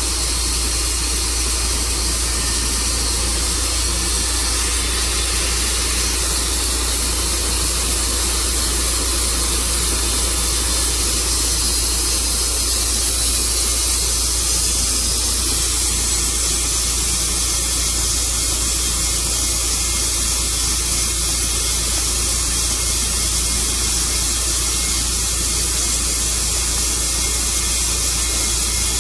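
Sawmill running steadily with its blade cutting through a walnut log: a loud, even, hissing noise over a steady low drone, unchanged throughout.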